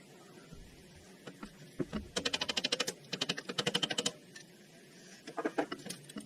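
Socket ratchet clicking rapidly in two runs of about a second each, about a dozen clicks a second, followed by a few scattered tool knocks near the end.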